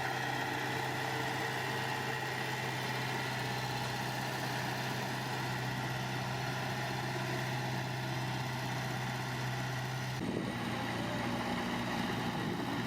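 Diesel engine of heavy earthmoving machinery running steadily at an even speed. The sound changes abruptly about ten seconds in.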